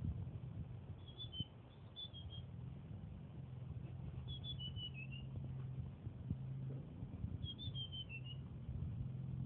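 A tledekan songbird, still in training, singing three short phrases of high, stepwise descending notes about three seconds apart, over a steady low hum.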